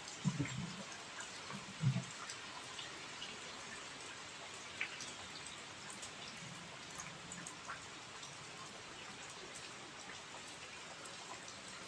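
Steady rain falling, with scattered ticks of individual drops landing. Two short, dull low thumps stand out in the first two seconds.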